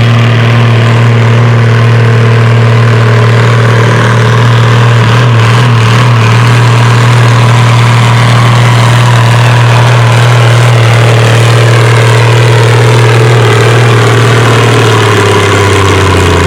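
Antique farm tractor engine running hard under full load while pulling a weight-transfer sled, its pitch held steady and then dropping a little near the end as the engine pulls down under the load.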